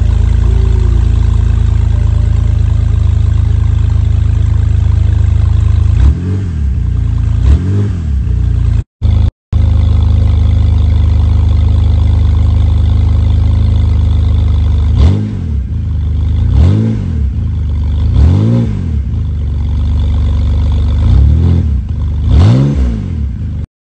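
BMW 328i's N52 straight-six running with the muffler removed: a loud steady idle, blipped twice, then five more short revs that rise and fall quickly back to idle. The sound drops out briefly twice in the middle.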